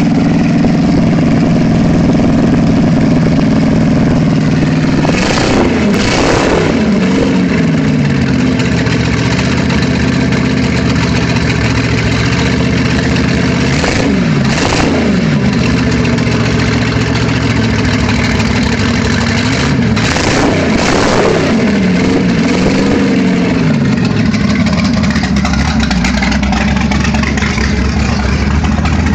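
Scarab boat's 350 Chevrolet V8 running at idle and revved up and back down three times while it is being tuned. The idle settles lower toward the end.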